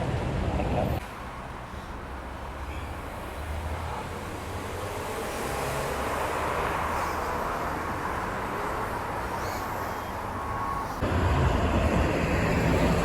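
Road vehicle passing: its noise swells to a peak about six seconds in and then fades. Near the end it gives way suddenly to a louder, steady low rumble.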